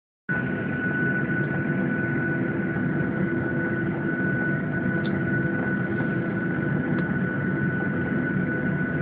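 Steady hum and rush inside the cabin of a Boeing 737-800 on the ground, with a constant high-pitched whine over lower steady tones, after a brief dropout at the very start.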